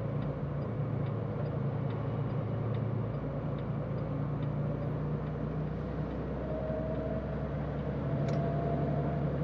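Semi-truck's diesel engine and road noise heard from inside the cab while driving on the highway: a steady low drone.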